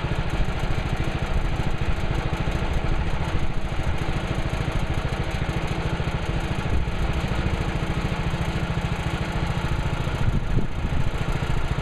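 Gas engine of a Woodland Mills HM130MAX portable bandsaw mill running steadily.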